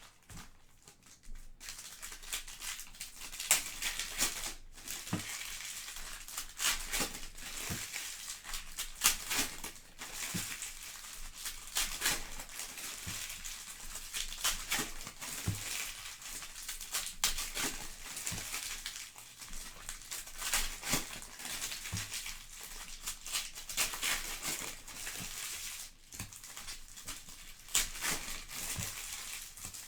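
Trading card pack wrappers crinkling and tearing open, with cards being handled: a steady run of irregular crackles and small clicks.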